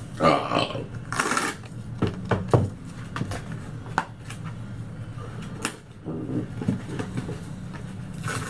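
Objects being handled: two brief rustling bursts near the start, then scattered clicks and knocks over a low steady hum.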